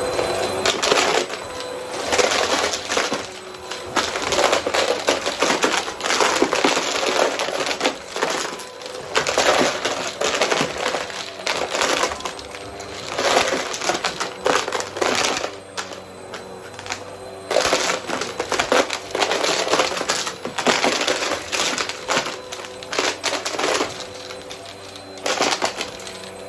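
Vacuum cleaner running steadily while sucking up coins, which rattle and clatter through it in irregular bursts.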